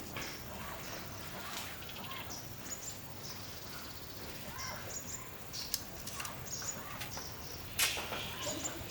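Birds chirping in short scattered calls over a steady background, with a few sharp knocks, the loudest one near the end.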